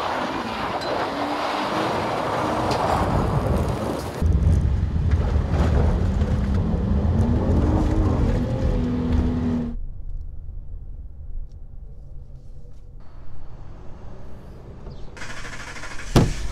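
Dodge Challenger engine revving as the car drives off across loose dirt, its pitch rising and falling over a heavy low rumble. About ten seconds in, this cuts to a quieter steady driving drone. A single sharp knock comes near the end.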